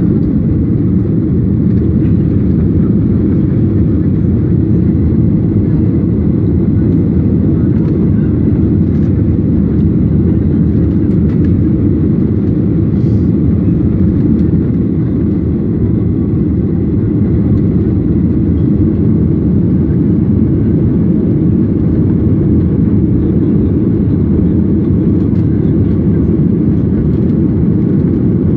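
Steady low rumble of an airliner heard from inside the passenger cabin: engine and airflow noise holding level without change.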